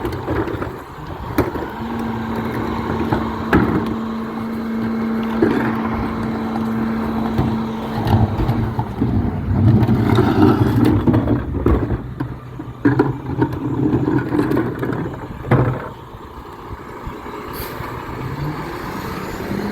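Garbage truck running: a heavy engine with a steady hum lasting about six seconds near the start, and scattered knocks and clanks.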